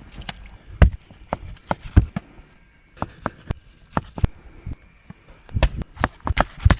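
An irregular series of sharp knocks and thuds, a few a second, with two heavy ones in the first two seconds and a quick cluster near the end.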